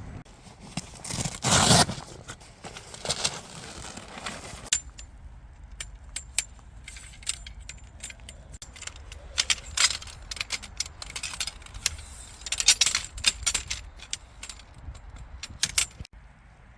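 Light metallic clinks, jangles and scrapes of small hard objects being handled, in quick irregular runs, with abrupt changes where the footage is cut.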